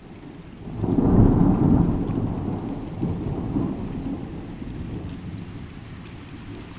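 A thunderclap in a rainstorm: a loud low rumble that swells about a second in and rolls away slowly, over steady falling rain.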